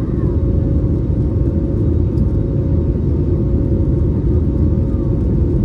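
Steady low rumble of an Airbus A321neo's engines and airflow heard inside the passenger cabin in flight, with a constant hum running through it.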